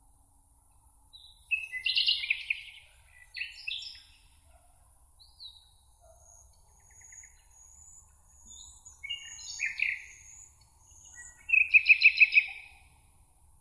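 Songbirds singing: several short chirping, warbling phrases, the loudest a rapid trill of about seven notes near the end, with thin high calls in between over a faint steady hiss.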